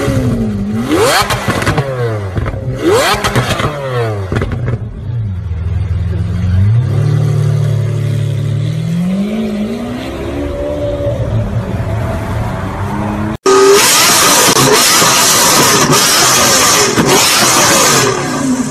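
Lamborghini Aventador V12 blipped twice, the pitch leaping up and falling back each time, then pulling away with the engine note climbing as it accelerates. After a sudden cut, a Lamborghini Gallardo's V10 is revved very loud and harsh for several seconds.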